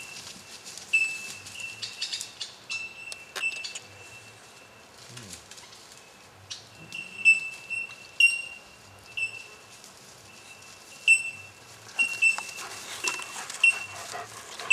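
A bird calling over and over with short, high chirps, all on the same pitch and spaced unevenly, some in quick pairs, with a few faint clicks between.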